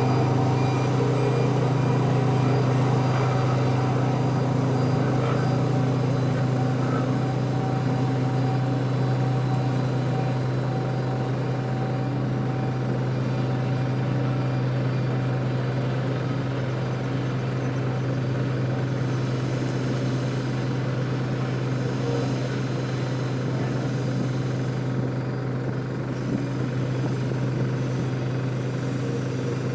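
Truck engine running steadily with a constant low hum, slowly getting a little quieter.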